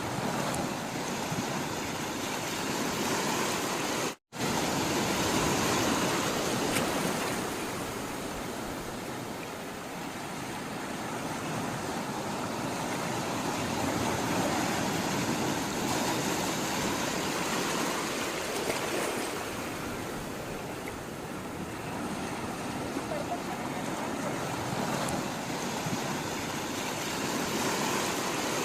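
Sea water washing and surging in a continuous rush, slowly swelling and easing over several seconds at a time. The sound cuts out completely for a moment about four seconds in.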